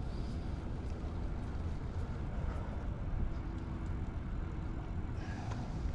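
Steady low rumble of wind and road noise picked up by a GoPro Hero 9 microphone while riding a bicycle along a paved path.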